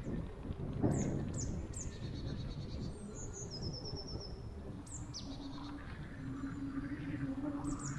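Small woodland birds calling: repeated high chirps that sweep down into short trills, with a higher trill partway through. Under them runs a steady low rumble, and a low steady hum comes in during the second half.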